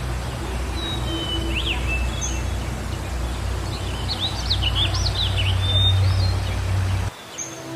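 Small birds chirping and twittering, many quick rising and falling notes, over a steady low rumble of outdoor background noise. About seven seconds in, the background cuts off suddenly and sustained music tones like a singing bowl begin.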